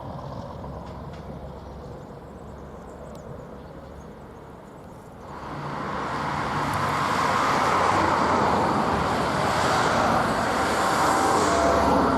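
A train running by: a low rumble, then about five seconds in its rolling and engine noise rises suddenly and keeps getting louder. A steady horn-like tone starts right at the end.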